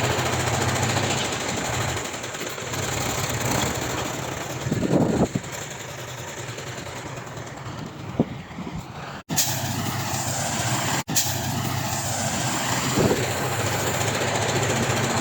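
Heavy diesel earthmoving machinery running steadily, with a louder noisy burst about five seconds in. The sound breaks off for an instant twice, near nine and eleven seconds.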